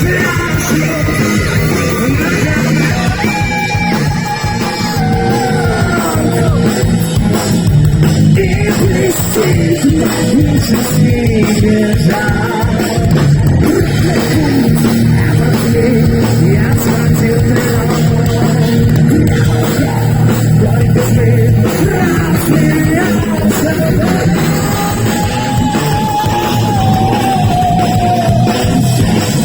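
Heavy metal band playing live and loud: electric guitars over a dense bass, with a melodic lead line that slides up and down.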